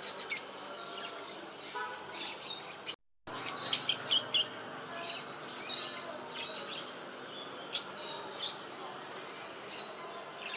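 Small cage birds chirping in quick, high bursts, busiest near the start and again about three and a half to four and a half seconds in, then in sparser calls.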